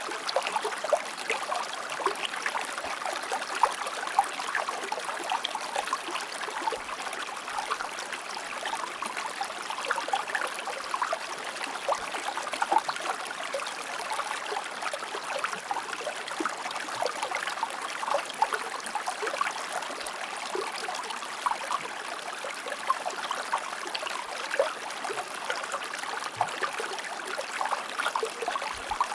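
Shallow stream flowing over stones, a steady babbling with constant small splashes and trickles.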